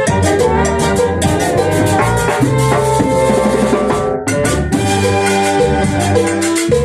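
A Peruvian dance band playing: sustained melody instruments over a steady, regular beat of drums and percussion.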